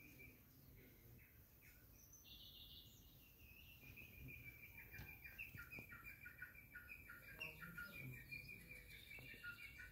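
Faint bird chirping: quick runs of short, high notes that become a fast, steady series from about four seconds in.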